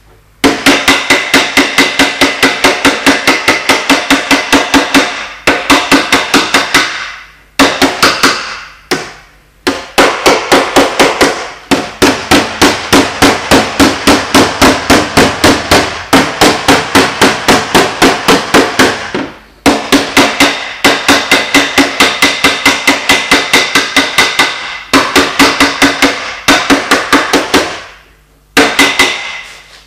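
Paintless dent repair tap-down: a small hammer tapping rapidly on metal, about five light strikes a second, each ringing briefly. The taps come in runs of one to several seconds with short pauses between them.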